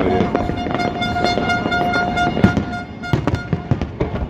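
Fireworks going off in a string of bangs and crackles. A single steady horn note sounds over them for about the first three seconds and then stops.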